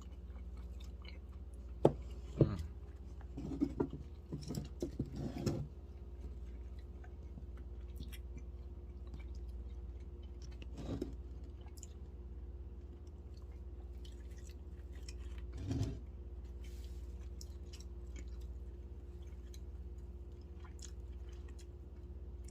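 A person chewing and biting food, with a few short clicks and knocks between about two and six seconds in and again later, over a steady low hum.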